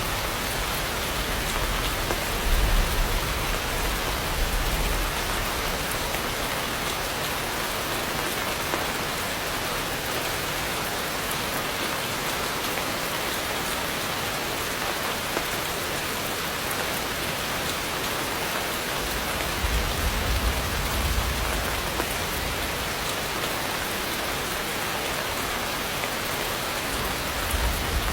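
Heavy rain pouring steadily, a dense even hiss of drops. Low rumbles swell up briefly a few seconds in, again about two-thirds of the way through, and near the end.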